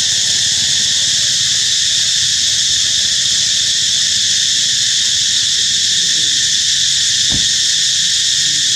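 A dense insect chorus shrilling steadily and high-pitched, unbroken throughout. A single short knock about seven seconds in.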